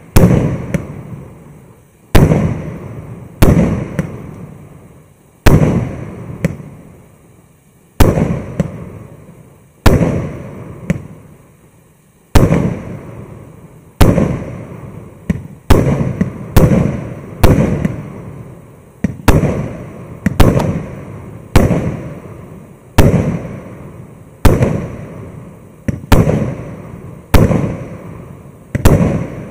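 Evgran 600-shot, 1.2-inch-calibre firework cake firing: a steady run of sharp bangs about every one to two seconds, each dying away over about a second.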